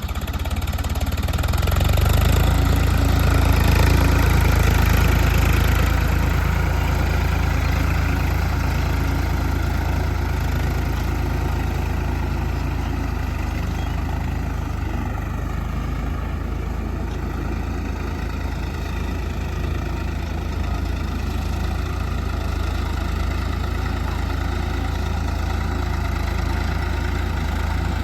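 Tractor diesel engine running steadily while pulling a cultivator, swelling louder for a few seconds near the start, then settling back to a steady level.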